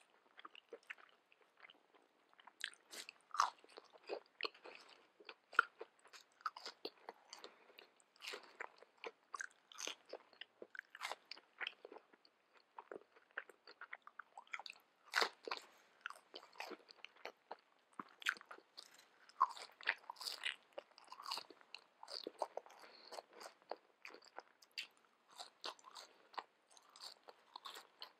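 Close-up ASMR eating sounds of a person biting and chewing crispy battered fried fish: irregular crisp crunches mixed with chewing.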